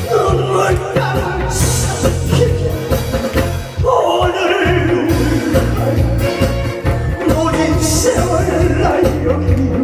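Live band playing a Korean trot song: a steady drum and bass beat under a wavering lead melody.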